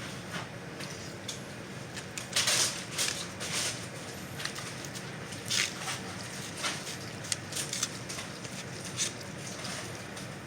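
A dog eating scrambled eggs, with irregular wet smacks and chewing sounds, loudest about two and a half seconds in, over a steady low background.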